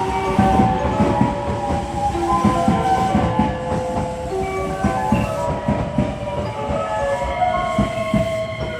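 Electric commuter train running through the station, its wheels clattering rhythmically over the rail joints, with a melody of short, shifting tones sounding over the clatter.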